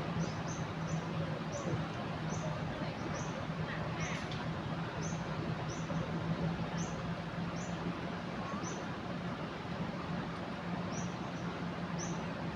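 Steady rush of floodwater pouring over a river weir, with a low steady hum underneath. A bird chirps repeatedly over it, a short high note about once or twice a second.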